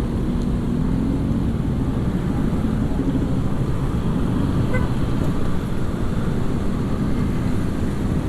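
Motorcycle riding along a road, heard from the rider's camera: a steady low engine hum under wind and road noise. A brief faint beep sounds about halfway through.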